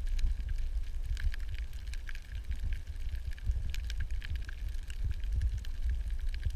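Underwater camera audio: a constant low, churning rumble of water moving against the housing, with scattered sharp clicks and crackles over it.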